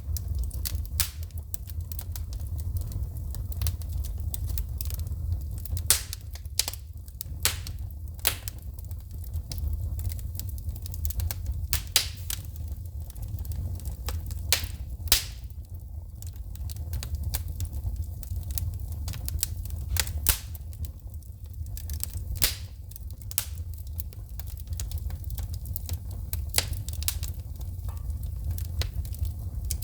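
Wood fire in a fireplace crackling, with irregular sharp pops and snaps of sparking logs over a steady low rumble.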